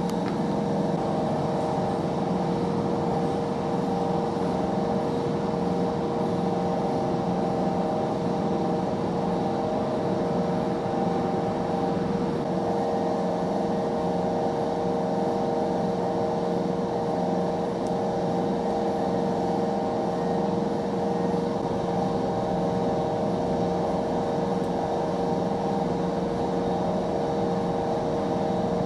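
Steady engine drone with several constant humming tones, unchanging throughout.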